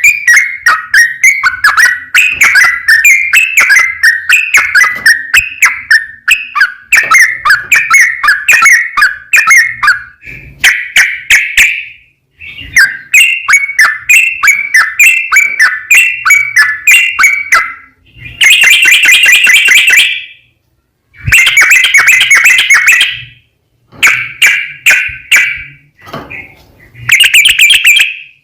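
Yellow-vented bulbul (trucukan) singing a long, fast run of repeated bubbly notes, then several shorter, denser phrases broken by brief pauses.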